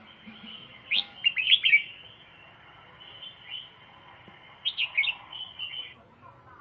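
A pet songbird singing: a burst of quick chirping notes about a second in, and a second burst of notes about five seconds in.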